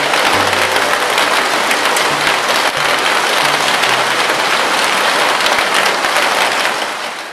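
Heavy rain falling steadily, a dense patter of drops, fading out near the end.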